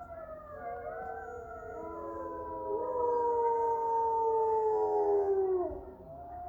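Several wolves howling together in a chorus, overlapping long calls at different pitches. One loud howl holds from about two seconds in and slides down and fades shortly before the end, while quieter howls carry on.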